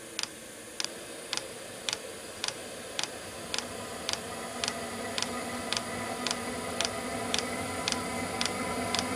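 Diesel air heater starting up: its fuel dosing pump ticks steadily, a little under two clicks a second, while the combustion blower fan hums and speeds up from about halfway through, just before the heater lights.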